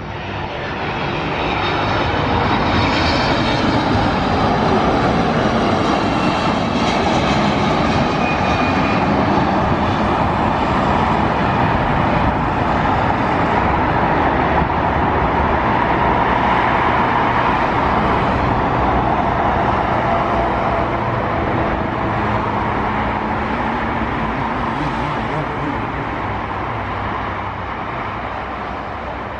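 Jet airliner engines close by, a loud steady rush with a high whine over it that slowly fades over the last several seconds.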